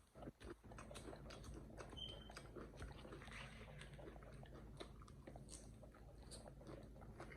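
Faint, irregular chewing and crunching of salad, with small wet clicks, as an animal eats lettuce and croutons.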